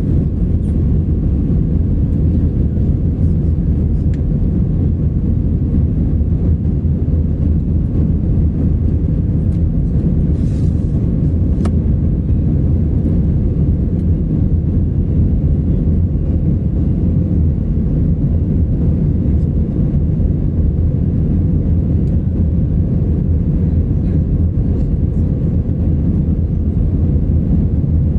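Steady low roar inside an Airbus A319's passenger cabin in flight shortly after takeoff: engine and airflow noise.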